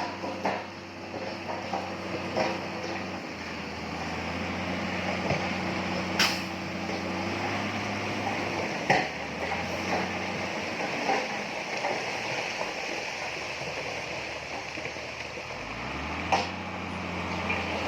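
Heavy diesel earthmoving machinery running steadily, with a few sharp metallic clanks, and the engine note rising about two seconds before the end.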